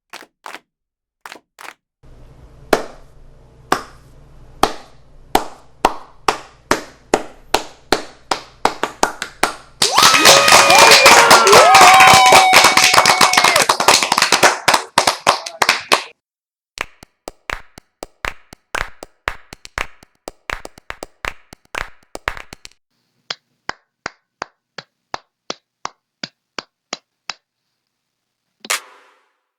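A run of clapping sound effects. Single hand claps come first, sparse and then quickening over a low hum. A burst of loud crowd applause with cheers over it lasts about six seconds, and then more hand claps follow, some of them evenly spaced and the last two echoing.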